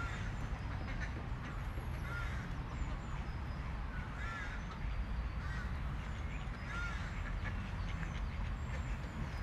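Large birds calling, a harsh call repeated every second or two, with faint high chirps of small birds over a steady low rumble.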